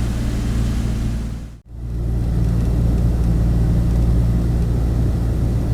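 Douglas DC-3's twin radial piston engines running in a steady, loud drone with propeller noise. It breaks off for an instant about a second and a half in, then carries on.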